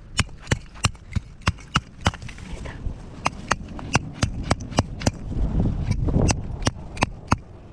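A small hatchet striking wood in a quick run of sharp knocks, about three a second, as kindling is cut for a campfire.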